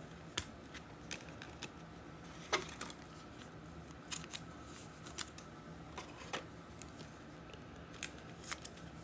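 Trading cards being handled and slid against one another: faint scattered clicks and light rustles, the loudest about two and a half seconds in.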